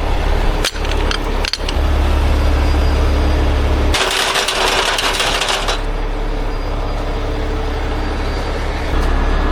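Heavy diesel machinery running with a steady low rumble, a few sharp metallic clinks in the first couple of seconds, and a loud hiss lasting about two seconds midway.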